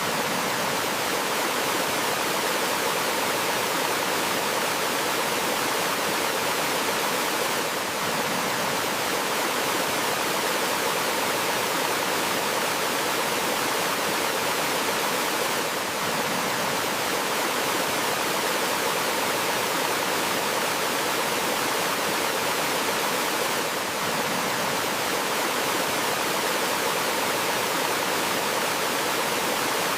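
Water rushing steadily over rocks in a forest stream or small waterfall, an even hiss with no letup.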